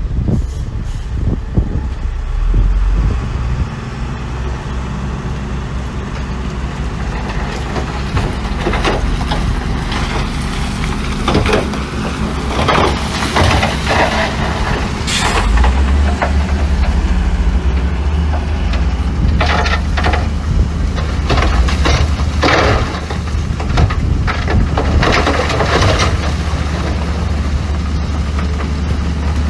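Heavy diesel engines of dump trucks and a bulldozer running steadily, the low drone getting heavier about halfway through. Short bursts of hissing and rattling come and go through the middle, grouped around a third of the way in and again later.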